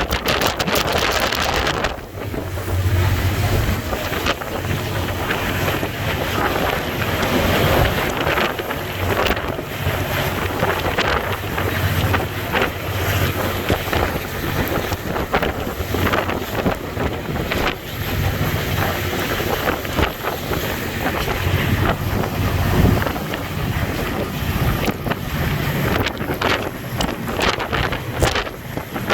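Strong wind buffeting the microphone in a snowstorm, over the low rumble of a train that swells and fades every second or two.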